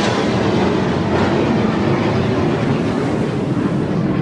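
Jet aircraft engines producing a loud, steady rumble.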